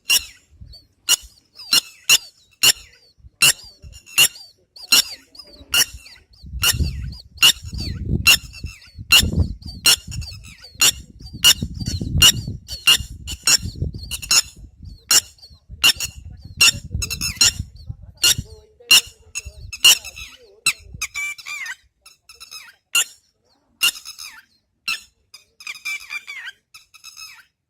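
Water birds calling: a long run of sharp, squeaky calls, about one or two a second, evenly spaced at first and becoming more irregular and chattering near the end. A low rumble runs under the calls through the middle stretch.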